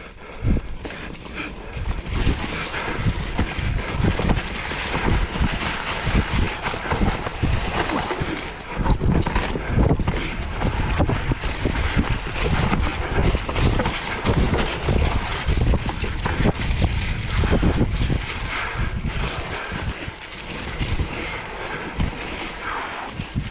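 Wind buffeting the microphone and mountain-bike tyres rolling over a dirt trail during a ride, a continuous rough rumble with frequent knocks and rattles from the bike.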